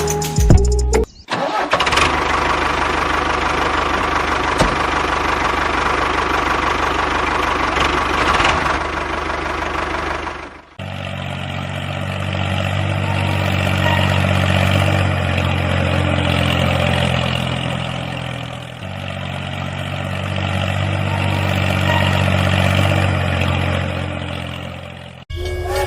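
Engine running. First comes a dense rattly, hissy stretch lasting about ten seconds, then a steadier low drone whose pitch shifts a few times before it cuts off near the end.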